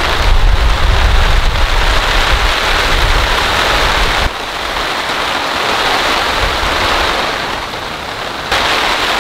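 Heavy rain falling steadily, with wind buffeting the microphone as a low rumble for the first four seconds. The sound changes abruptly about four seconds in and again near the end.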